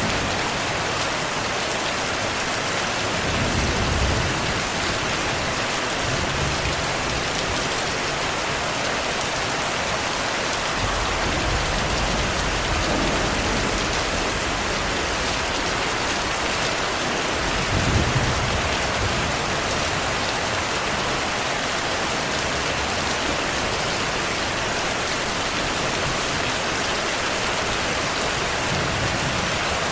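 Steady heavy rain with low rumbles of distant thunder: a short one a few seconds in, a long low rumble in the middle, and the strongest just past halfway.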